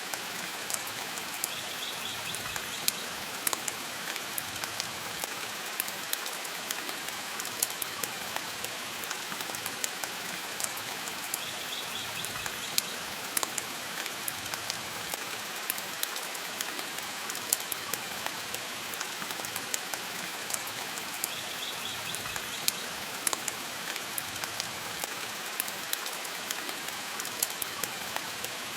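Steady rain with the scattered sharp pops and crackles of a wood fire burning in a fireplace. A brief high sound recurs three times, about ten seconds apart.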